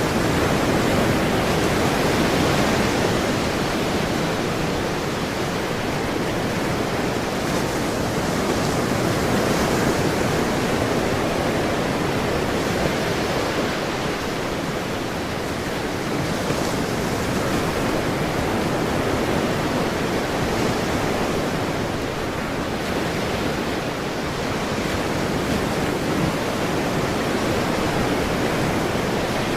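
Ocean waves breaking and washing on a shore, a steady rush of surf that swells and eases gently every few seconds.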